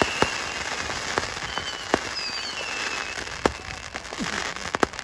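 Fireworks display: a dense crackle like rain, broken by about five sharp bangs, with faint whistles from whistling fireworks for a second or so in the middle.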